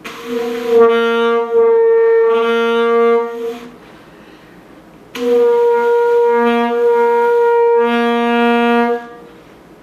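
Saxophone playing two long held notes, fingered low G with the octave key pressed, so that the note flips back and forth between the G and the G an octave below, at times sounding both together.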